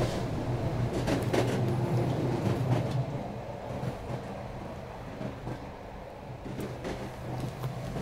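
Train running: a steady low hum with scattered clicks and knocks, louder for the first three seconds and then easing off a little.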